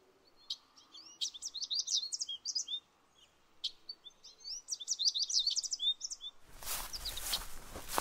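Small birds chirping in quick runs of short, sweeping notes, with a brief pause partway through. About six and a half seconds in, a louder outdoor hiss comes in suddenly, with a few chirps still over it.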